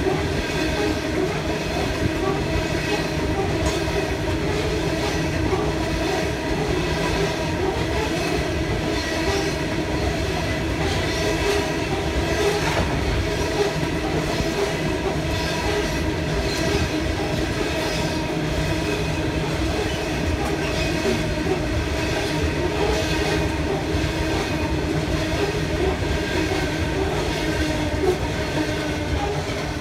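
Freight train rolling past steadily, its wheels clicking over the rails with a continuous hum and whine.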